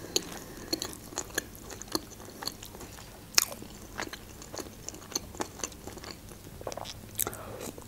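A person chewing a mouthful of shawarma: a run of soft, irregular mouth clicks, with one louder click about three and a half seconds in.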